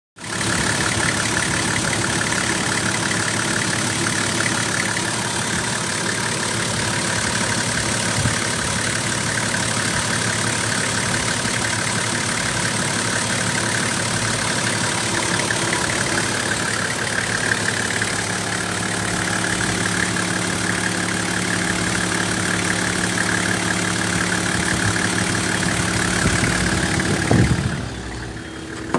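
Toyota Landcruiser 4.2-litre straight-six diesel engine idling steadily, with a diesel's even clatter. Near the end it swells briefly, then drops in level.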